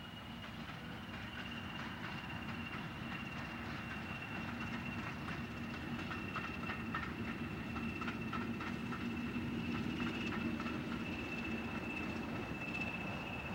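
BR Class 20 diesel locomotive 20228 approaching and passing, its engine growing louder to a peak about ten seconds in, with a steady high-pitched whine over a low engine hum. A run of wheel clicks over the rail joints comes in the middle.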